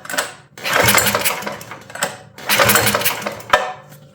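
Minibike's small single-cylinder engine being cranked with its recoil pull starter, twice in quick succession, each pull a short rush of turning over without firing. The spark plug wire is not connected, so it cannot start.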